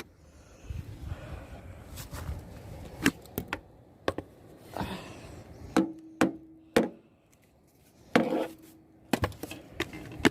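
Irregular sharp knocks and clicks, about a dozen, with soft rustling between them: objects being handled and set down in a small space.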